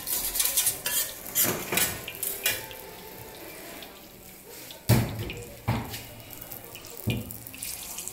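Oil sizzling on a large flat iron griddle (tawa) where kebabs are frying, with a quick run of metal spatula clicks and scrapes against the griddle in the first couple of seconds. A few sharp knocks come later, the loudest about five seconds in.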